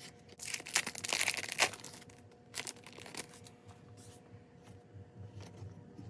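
Plastic crinkling as trading cards and their wrapping are handled, loudest in a burst for about a second and a half near the start, then a few light clicks and rustles as cards are shuffled.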